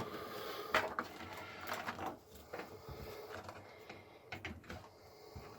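Scattered small clicks and rustles of a plastic IDE ribbon cable and its connector being handled and pushed into place inside a PC case, busier in the first couple of seconds.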